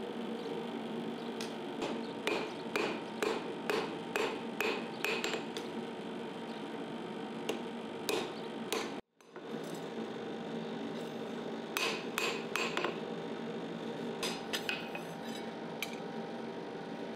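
A series of sharp taps or knocks, each with a short ring, coming irregularly in two runs over a steady background hum. The sound drops out abruptly for a moment about halfway through.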